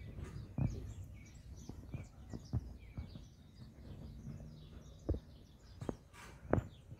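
Small birds chirping, with many quick, high chirps throughout. A few short knocks break in, the loudest near the end.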